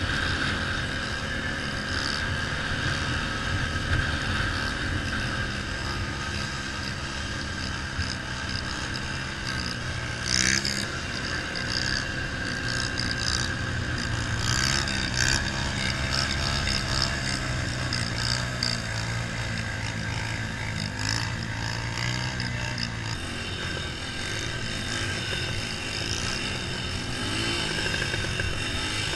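Small mini bike engines running steadily, with a few short louder moments.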